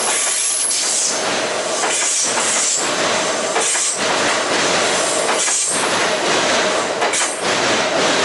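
Kintetsu electric train passing close by: loud rushing wheel-on-rail noise, broken by irregular knocks and with brief high squeals coming and going.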